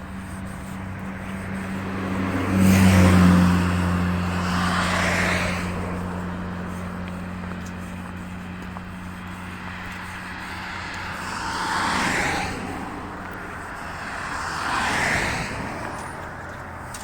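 Cars passing by on a road one after another, four swells of tyre and engine noise. The first, about three seconds in, is the loudest and carries a low engine hum.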